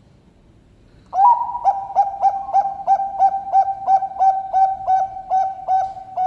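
Zebra dove (Bangkok-bred perkutut) singing. About a second in it starts a quick run of low, rolling coos, about three a second, and ends on a longer drawn-out note.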